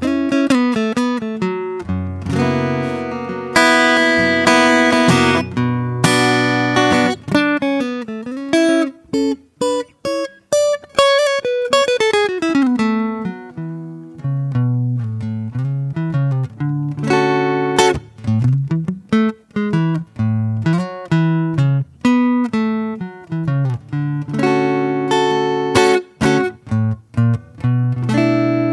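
Acoustic guitar played solo and improvised: single plucked notes and chords ring out and fade. About halfway through, one note slides down in pitch.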